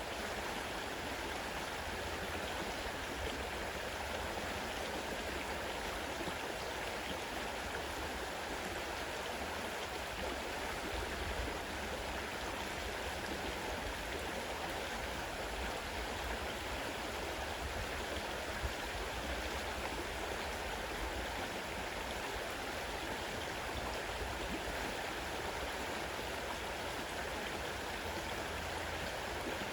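Fast-running river water rushing and flowing in a steady, unbroken stream.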